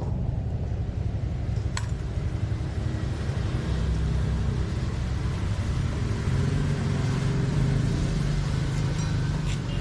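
Motorbike engine running steadily, with a sharp click about two seconds in and another near the end.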